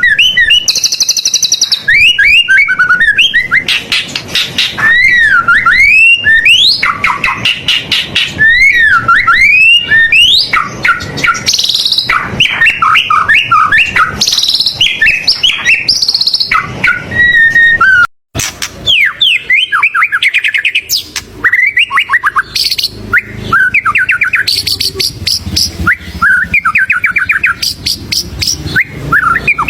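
White-rumped shama singing a loud, varied song of clear whistles, swooping up-and-down notes and rapid trills, broken by a brief silence about eighteen seconds in.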